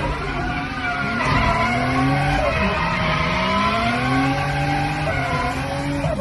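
Straight-piped, turbocharged BMW M50 straight-six engine in an E36 revving up and down over and over, each climb in pitch lasting a second or two before it falls back.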